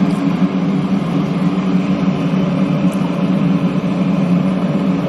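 A kitchen appliance running with a loud, steady motor hum.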